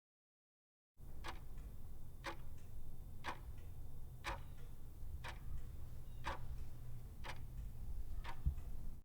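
Steady ticking, one sharp tick about every second, over a low hum; it starts about a second in after dead silence.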